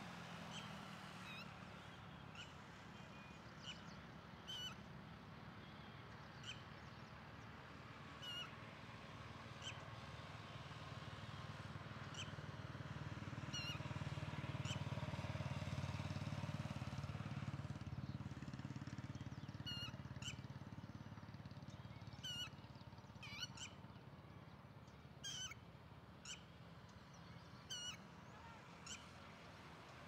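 Short high bird chirps, scattered and coming more often in the second half, over a faint low rumble that swells and fades again in the middle.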